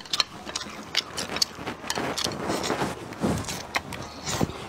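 Close-up eating sounds: fried dried river shrimp being chewed, with many short, sharp crunches and clicks.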